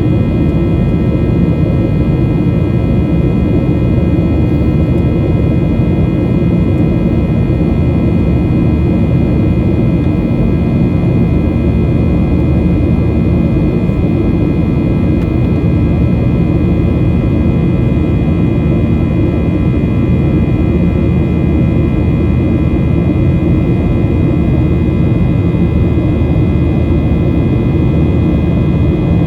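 Cabin noise of a Boeing 737-800 in flight, heard from a seat ahead of the wing: its CFM56-7B jet engines and the airflow make a steady, loud rumble with several steady high tones above it.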